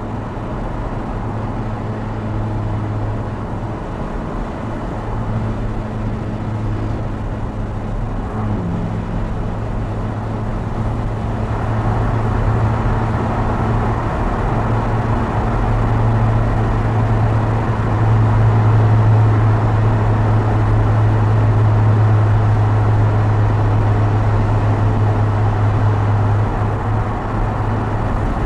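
Opel Speedster Turbo's mid-mounted 2.0-litre turbocharged four-cylinder cruising at a steady engine speed, heard close from behind the seats of the open roadster, with road and wind noise. About halfway through, the car enters a road tunnel and the engine sound grows louder.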